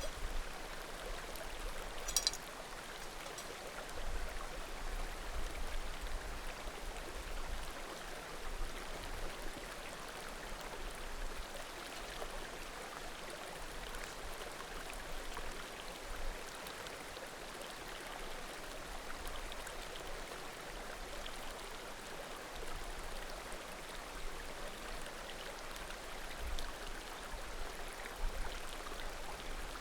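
Small mountain creek babbling steadily, with a sharp pop from burning firewood about two seconds in and a few fainter crackles.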